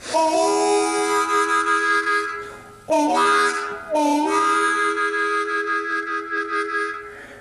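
Harmonica playing an introduction in long held chords: a first chord, a short phrase with bent notes about three seconds in, then a long chord that fades away near the end.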